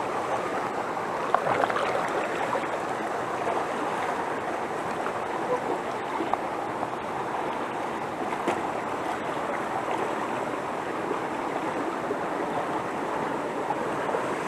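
Steady rush of water from a mountain stream tumbling over rocks, with a brief knock about a second and a half in.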